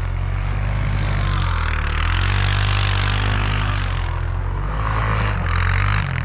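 Snowmobile engine running under way. Its pitch dips about two seconds in and climbs again, under a steady rushing hiss.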